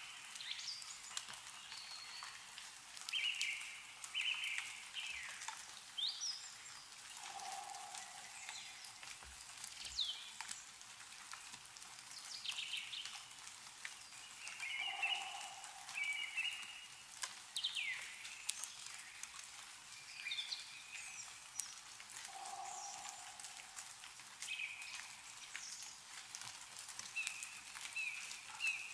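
Meltwater dripping and pattering from snowy trees in many small ticks, with songbirds giving short repeated calls and quick falling notes. A lower short call comes three times, about seven seconds apart.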